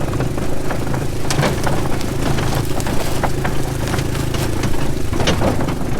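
Four-wheeler (ATV) engine running steadily, with scattered light clicks and knocks over it.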